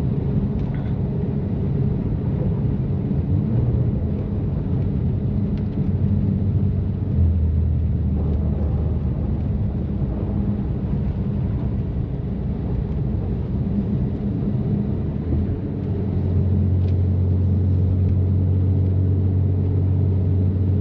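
Twin-turbo inline-six of a tuned BMW M3 (F80) running at steady highway speed, heard from inside the cabin as a low exhaust drone through catless downpipes and an open-valved exhaust, over tyre and road noise. The drone changes pitch about seven seconds in and grows louder about sixteen seconds in.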